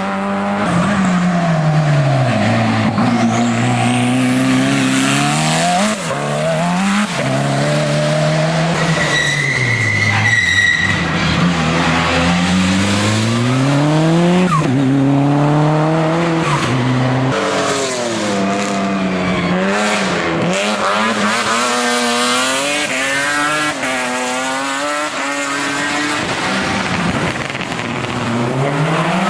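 Hillclimb race car engine at full throttle, its pitch rising and dropping repeatedly as it climbs through the gears and brakes for corners. A brief high-pitched tyre squeal comes about ten seconds in.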